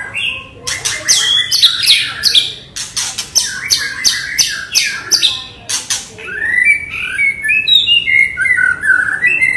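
White-rumped shama singing fast and loud: a rapid string of sharp, high notes sweeping downward, which changes about six seconds in to lower, warbling phrases.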